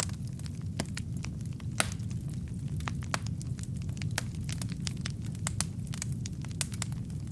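Wood fire burning in a fireplace: a steady low rumble of flames with frequent, irregular sharp crackles and pops from the logs, one louder pop just under two seconds in.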